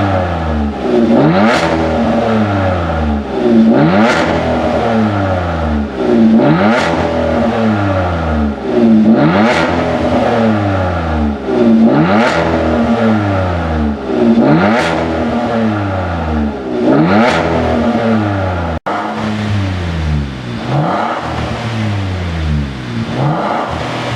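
Kia Carnival's 3.5-litre V6 petrol engine free-revved through an aftermarket variable exhaust: seven revs, each rising and then falling away, about every two and a half seconds. After a brief dropout about 19 seconds in come shorter, lighter blips.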